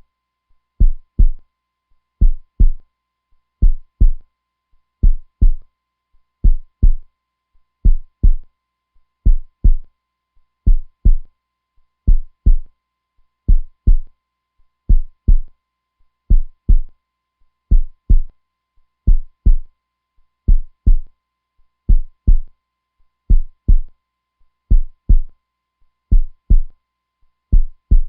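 Heartbeat sound: steady, slow double thumps (lub-dub), a pair about every second and a half, low and strong.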